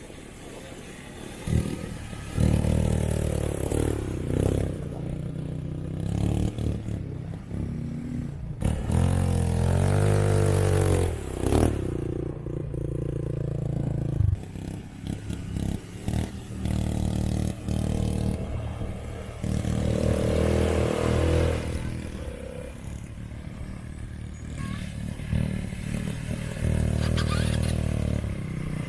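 ATV quad bike engine running and revving as it rides on sand, its pitch rising and falling with the throttle, with a sharp climb in revs about ten seconds in.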